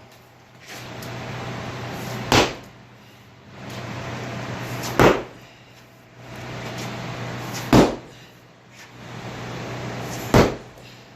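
Heavy hammer blows on a scored concrete floor slab, four evenly spaced strikes about every two and a half seconds, breaking up the cement along the cross cuts. A steady low hum runs underneath.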